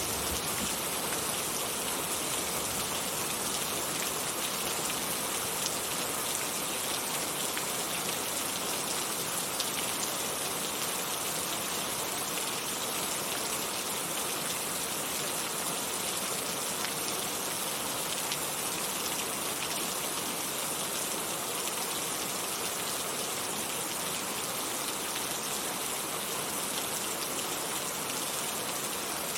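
Heavy rain falling steadily, a dense hiss of drops hitting surfaces with scattered sharper patters, unchanging throughout.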